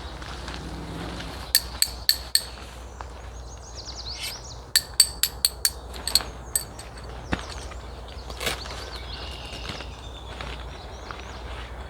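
Bursts of sharp clinking taps, four in quick succession and then about six more a few seconds later, with faint bird chirps.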